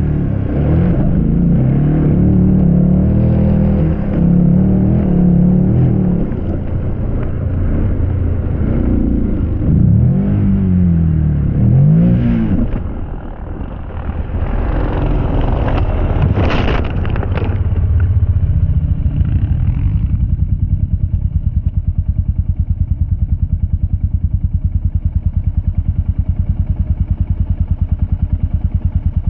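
Motocross bike engines revving up and down with constantly shifting pitch, with a brief clatter of impacts about two-thirds of the way through. From about twenty seconds in, a steady, evenly pulsing engine runs at a constant speed.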